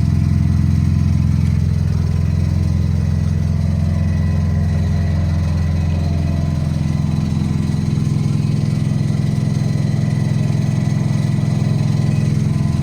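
Datsun 510's engine idling steadily while it warms up after a cold start; the idle note shifts slightly about seven seconds in.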